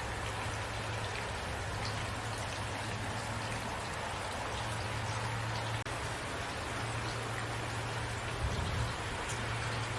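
Steady rainfall: an even hiss with scattered individual drop taps and a low hum underneath. The sound dips out for an instant about six seconds in.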